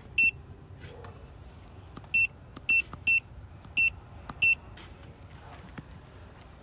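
Six short, high-pitched electronic beeps at uneven intervals, over a faint low hum.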